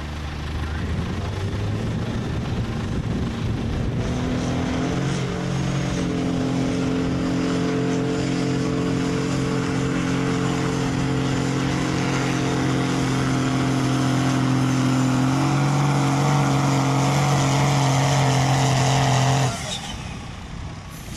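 Diesel pickup truck engine at full throttle pulling a sled. The revs climb in steps over the first several seconds, hold at a high steady pitch, dip slightly about three quarters of the way through, then fall away suddenly near the end as the throttle is cut.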